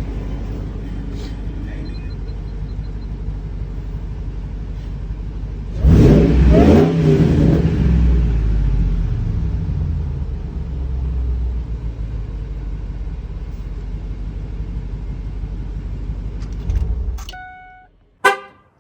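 2001 Ford SVT Lightning's supercharged 5.4-litre V8 running, revved up about six seconds in with its pitch rising and falling, then settling and stopping near the end. A short horn toot follows just after it stops.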